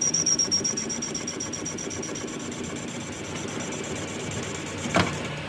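An engine idling steadily, with a faint high whine over it, and a single knock about five seconds in.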